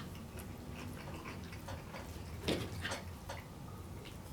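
Faint, irregular light clicks and taps of someone eating a meal.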